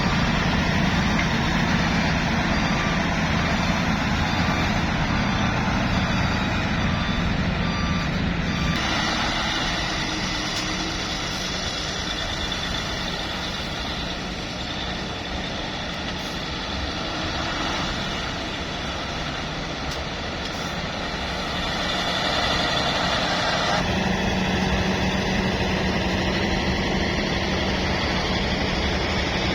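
Diesel dump truck engines running, with a reversing alarm beeping at an even pace for about the first nine seconds. The sound changes abruptly about nine seconds in and again near twenty-four seconds.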